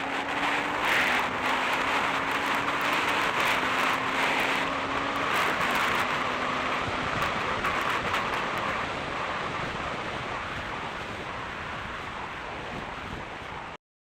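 Motorcycle helmet-camera audio: wind rushing over the microphone, with a faint engine tone rising slightly during the first half. It cuts off abruptly near the end.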